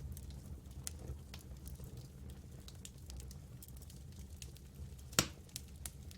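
Campfire crackling: scattered sharp pops over a low steady rumble, with one loud snap about five seconds in.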